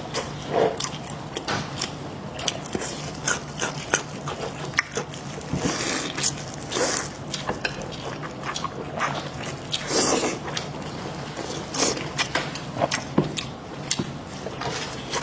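Close-up eating sounds: biting and chewing, with many sharp, irregular clicks and short wet bursts.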